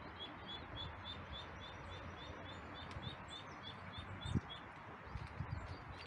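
A small bird calling one short high note over and over, about four times a second, for the first few seconds, over steady outdoor background noise. Two low thumps come near the end.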